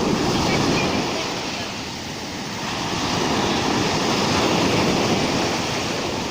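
Surf of a rough sea: a continuous wash of breaking waves that swells, eases a little about two seconds in, swells again and eases near the end.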